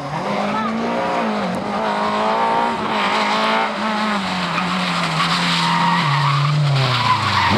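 Race car engine at high revs, its pitch wavering up and down, then falling steeply near the end before climbing again.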